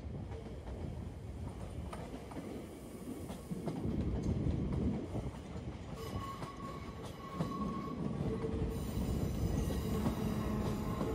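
Double-deck electric commuter trains rolling slowly over the station approach tracks: a low rumble of wheels and running gear that grows louder as a train passes close by, with a thin wheel squeal on the curves about six seconds in.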